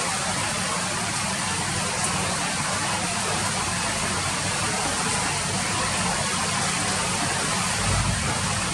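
Steady heavy rain falling, an even hiss of drops, with a low rumble underneath that swells briefly near the end.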